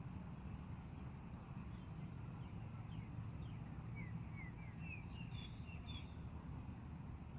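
Wind rumbling on the microphone, with a small bird giving a quick run of short, high chirps about four to six seconds in.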